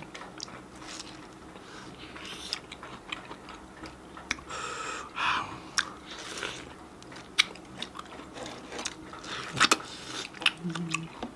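Close mouth sounds of eating juicy mango: biting and chewing with wet smacks and scattered clicks.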